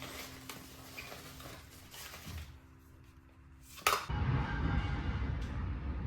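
Small glass and plastic cosmetic containers clinking and tapping faintly over soft background music. About four seconds in there is a sharp click, then a louder steady rushing noise begins.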